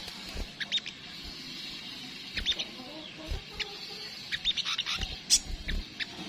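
Sunbird of the kind Indonesian keepers call sogok ontong, giving quick high chirps in scattered runs that grow busier about four to six seconds in. A few faint low knocks sound underneath.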